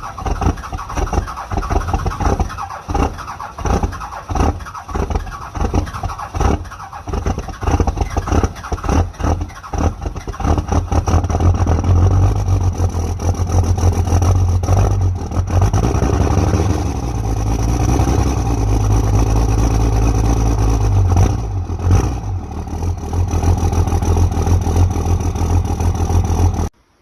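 Cummins inline-six turbodiesel cold-starting: the starter cranks it in even pulses for about ten seconds, then the engine catches and runs with a deep, rough rumble that evens out into a cold idle.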